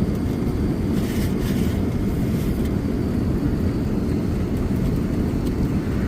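Steady low rumble of an Airbus A380 cabin in flight, the engine and airflow noise heard from a passenger seat, with a few faint clicks over it.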